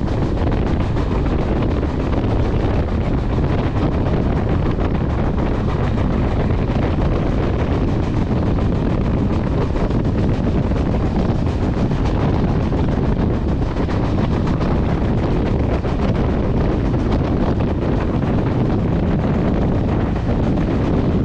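Steady low rumble of a diesel train running, with wind buffeting the microphone.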